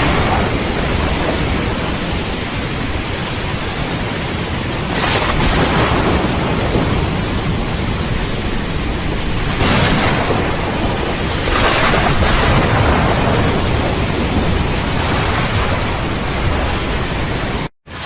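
Thunderstorm: steady heavy rain with low rumbling thunder, swelling a few times. The sound cuts out abruptly for a split second near the end.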